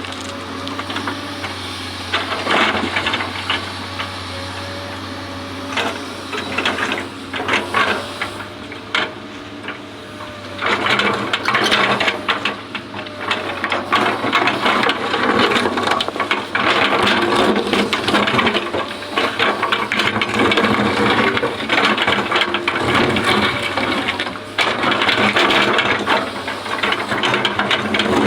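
Excavator running, its steady engine drone under rattling and clattering that surges unevenly and grows louder about a third of the way in.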